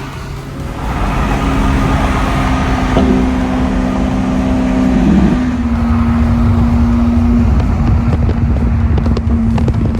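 Car engine running at steady revs, a constant drone that drops in pitch a little about five seconds in as the revs change.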